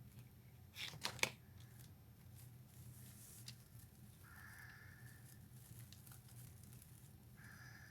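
Quiet handling noises of hot-glue crafting: a quick cluster of sharp clicks and crinkles about a second in, then faint rustling, with two brief faint steady tones later on.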